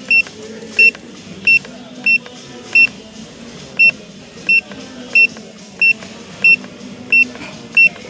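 Control panel of a Siruba 988L overlock sewing machine beeping once at each press of its plus button: about a dozen short, identical high beeps, roughly one every two-thirds of a second, as the setting number is stepped up toward S37.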